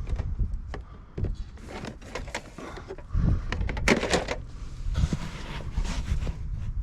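Irregular knocks, clicks and rustling from objects being handled, with a busier cluster of sharp knocks about four seconds in.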